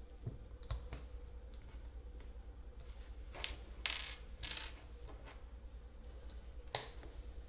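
Small plastic LEGO pieces clicking and clattering during a build, with a short rustle of pieces being shifted about halfway through and one sharp click near the end.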